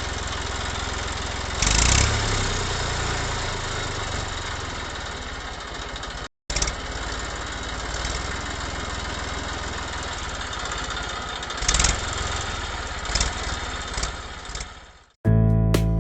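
A small engine running steadily with an even low throb, swelling briefly a couple of times. It cuts out for a moment about six seconds in and stops just before the end, where music begins.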